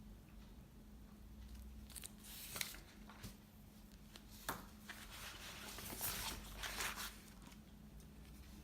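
Faint rustling, scraping and tearing of paper and tape being handled during crafting, with a couple of small sharp clicks about two and a half and four and a half seconds in, over a low steady room hum.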